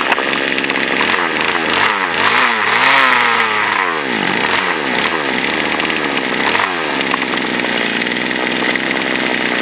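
Poulan Wild Thing two-stroke chainsaw engine screaming at high revs, its pitch swooping up and down repeatedly for several seconds before it settles to a steady high note near the end.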